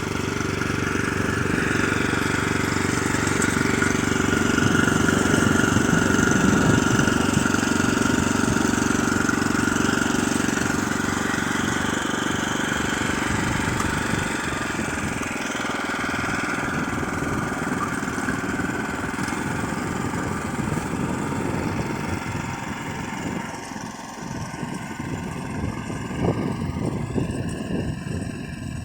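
Neva MB-23 walk-behind tractor's engine running steadily, working against packed snow, with a brief drop in loudness about three-quarters of the way through and a more uneven sound after it.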